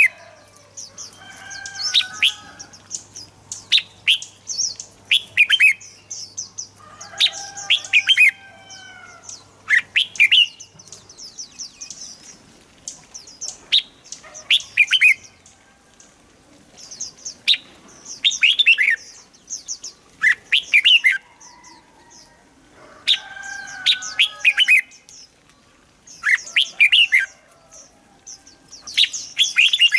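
Red-whiskered bulbul song: short phrases of quick whistled notes, repeated every second or two with brief pauses between.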